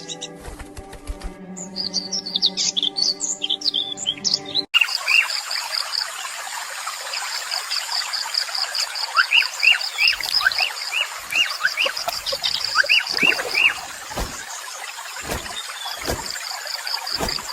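Bird chirps over soft music, then an abrupt cut about five seconds in to a natural ambience. The new ambience has a fast, high, evenly pulsed trill and a series of short rising and falling bird chirps, with a few dull low thuds near the end.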